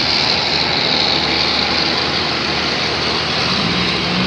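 Engine of a 1956 International pulling the sled at a tractor pull, running hard under load as a dense, steady din. A pitched engine note rises in near the end.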